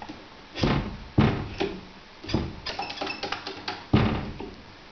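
A series of about six sharp knocks and thumps, with a quick run of lighter clicks around the middle, the last thump the loudest.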